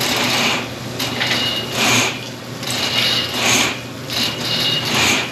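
Drain-cleaning machine run in short bursts, about seven spurts with gaps between, some with a brief high whine.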